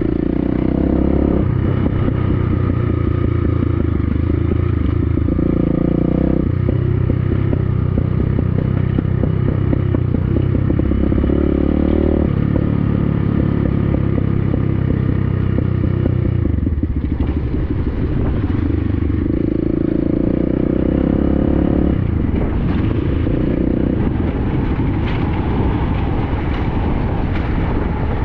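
BSE Z5 dirt bike's single-cylinder engine running under throttle, its revs rising and falling several times as the rider shifts and rolls the throttle. Knocks and rattles from the bike come through, more of them near the end.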